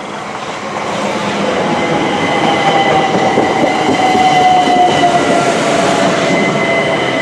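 A Class 375 Electrostar electric multiple unit passes close by as it runs into the station. Its loud rumble builds over the first few seconds, with a thin steady whine above it that drops slightly in pitch as the train slows.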